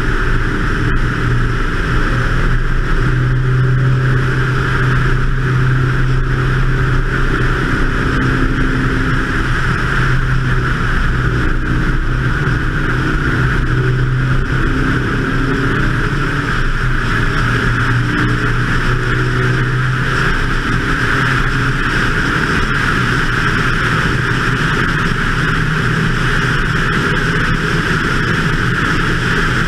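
BMW 2002 race car's four-cylinder engine running hard at speed around a track, its note shifting up and down through the lap, under a steady rush of wind on the hood-mounted microphone.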